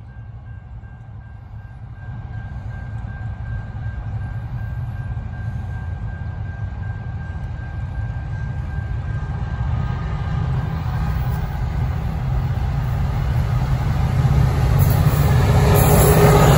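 Two G class diesel-electric locomotives hauling a freight train, approaching with an engine rumble that grows steadily louder. The lead locomotive draws level near the end, where the sound is loudest and takes on more rattle and hiss.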